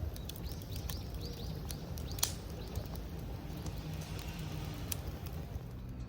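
A bird giving a quick run of about six falling chirps in the first second and a half, over a steady low rumble. Scattered sharp clicks come throughout, the loudest a little after two seconds in.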